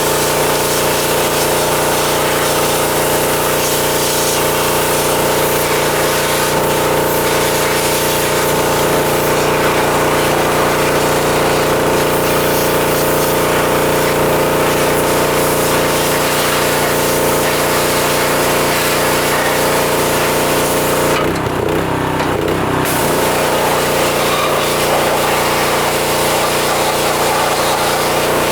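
Pressure washer running steadily, its motor humming under the hiss of the water jet. About 21 seconds in, the spray stops for a second or so while the motor keeps running, then the spray starts again.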